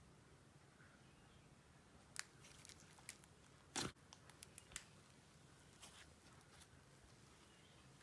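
Faint slime handling: a few soft clicks and small pops from layered icing and clay slime being played with, with one longer, louder crackle about four seconds in.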